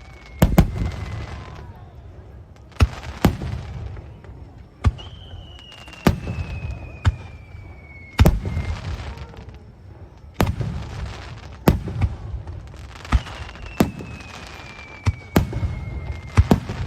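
Aerial fireworks bursting: over a dozen sharp bangs about a second apart, some trailed by a hissing crackle, with three long whistles that each slide slowly down in pitch over a few seconds.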